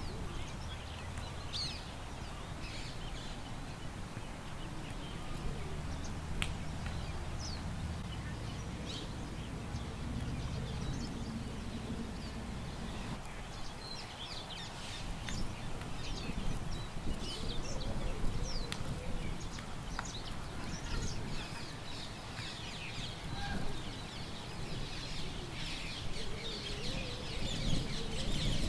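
Many small birds chirping and calling in short notes, busier in the second half, over a steady low rumble of wind.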